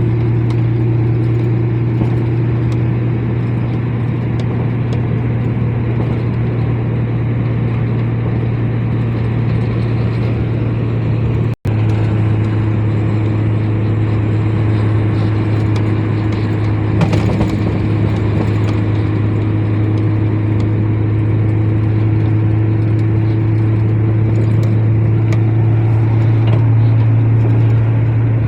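Heavy truck's engine running steadily on the road, a constant low drone with road noise, broken by a momentary cut-out about a third of the way in.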